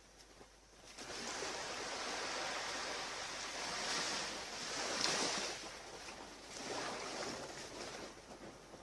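Ocean surf washing onto a beach, a rushing hiss that comes in about a second in and swells and fades several times.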